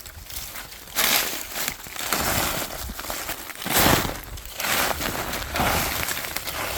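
Footsteps crunching on a mountain trail while walking downhill, roughly one step a second, the loudest step a little before the middle.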